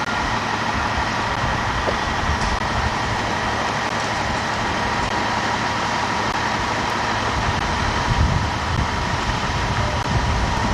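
Steady road and engine noise of a car being driven, with a thin steady whine underneath and a few low bumps about eight seconds in and again near the end.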